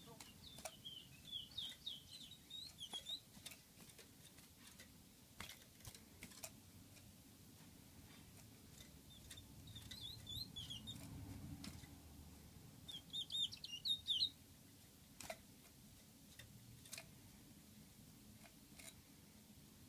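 Small songbird chirping in three short runs of quick high notes, the last the loudest. Faint scattered clicks sound in between.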